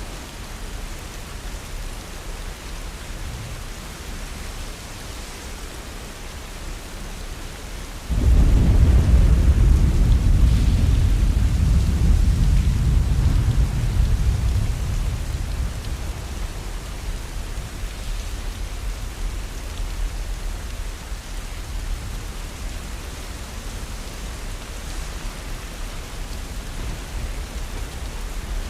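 Steady rain falling, with a clap of thunder that starts suddenly about eight seconds in and rumbles low before fading slowly over several seconds.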